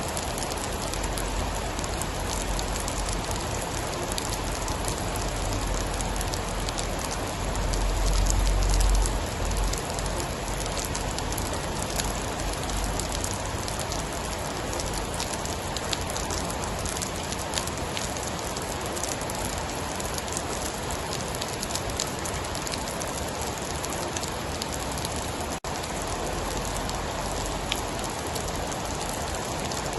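Steady rain: a continuous hiss with scattered fine drop ticks. A low rumble swells and fades about eight seconds in.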